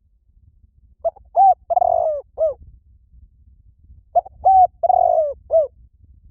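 Spotted dove cooing: two phrases of four notes each, about three seconds apart, each with a longer, falling third note. This is the territorial call used as a lure call to draw in other doves.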